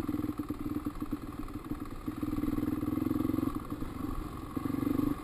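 450 four-stroke dirt bike engine running under throttle, its note swelling for a second or so about two seconds in and again near the end, then dropping off sharply.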